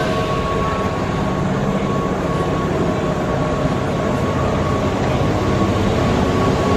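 Keihan 2200 series electric train approaching along the platform, a steady running rumble with a thin held tone over it, growing a little louder near the end as it draws near.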